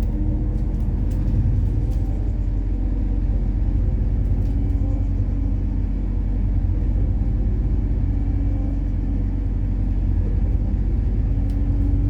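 MAZ-103 city bus running on compressed methane, heard from on board: a steady engine rumble and drive noise, with a few faint ticks and rattles.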